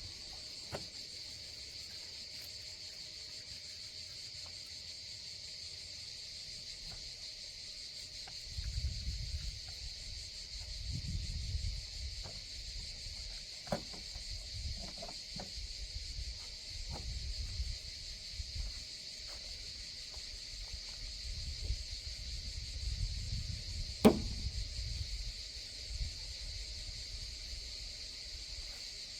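Steady, high-pitched chorus of insects. From about eight seconds in come bouts of low rumble and scattered clicks and knocks, the loudest a sharp knock about 24 seconds in.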